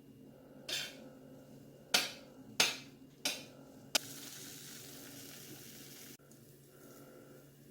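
A spoon or other utensil knocking against a pot or bowl five times while the couscous is stirred with jerk seasoning, then about two seconds of steady hiss that cuts off suddenly.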